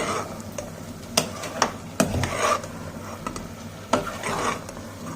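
A spoon stirring and scraping chicken and spice masala in a pressure cooker, with several sharp knocks of the spoon against the pot.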